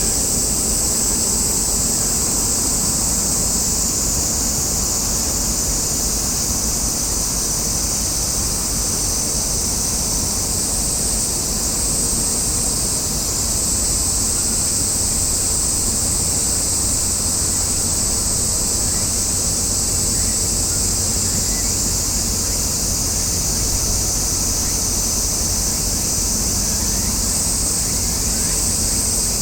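Steady outdoor harbour ambience: a low, even rumble with a continuous high-pitched buzz on top, unchanging throughout.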